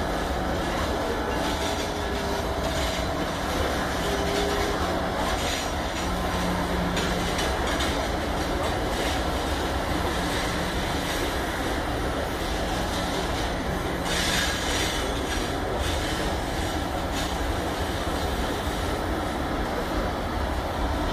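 Vale EFVM passenger train rolling past, a steady rumble of wheels on rails and cars going by.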